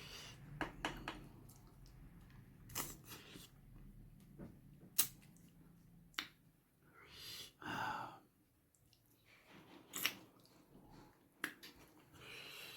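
A person eating meat curry and rice close to the microphone: faint chewing and mouth noises with scattered sharp clicks, and a few short breathy sounds in the middle.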